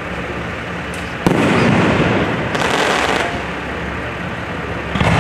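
Fireworks display: a shell bursts with a sudden bang about a second in, followed by about two seconds of loud rumble and crackle, and another burst near the end.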